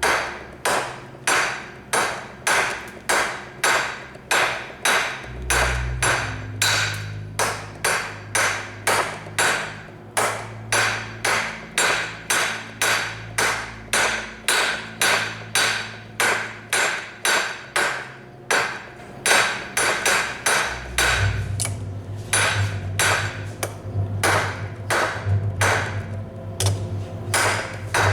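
Blacksmith's hammer striking hot steel on an anvil in a steady rhythm of about two blows a second, each with a short metallic ring, over a low hum.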